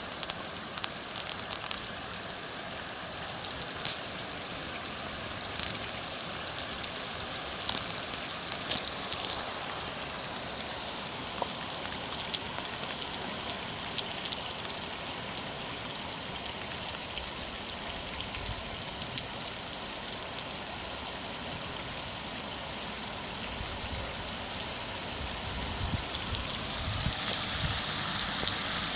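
Steady rain falling: a constant hiss dotted with many small drop ticks.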